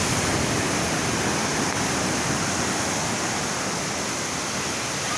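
Waterfall pouring into the sea: a steady, even rush of falling water.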